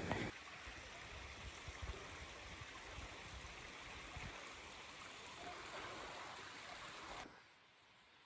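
Stream water flowing and babbling in a steady rush; it stops abruptly about seven seconds in.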